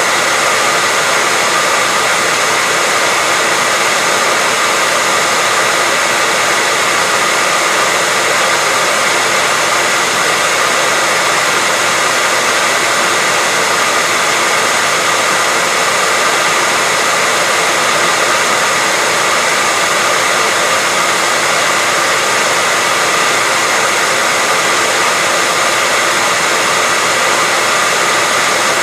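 Hair dryer running steadily, a loud, unbroken blowing hiss with a faint steady whine in it.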